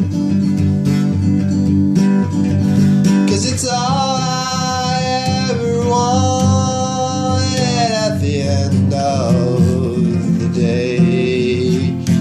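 Acoustic guitar strumming a country-folk song. A long held melody note comes in a few seconds in and lasts about four seconds.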